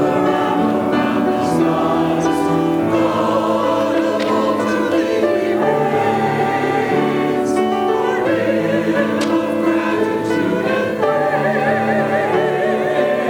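A choir singing, with long held chords that shift every second or two and some vibrato on the sustained notes.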